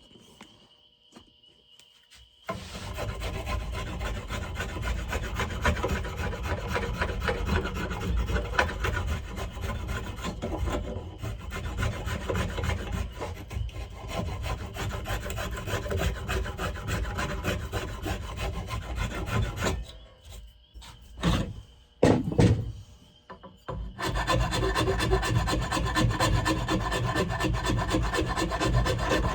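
Rasp working down the shoulder of a wooden axe handle to fit it into the axe eye: continuous scraping strokes. They begin after a couple of quiet seconds, stop for about four seconds two-thirds of the way through, with two short louder sounds in the gap, then start again.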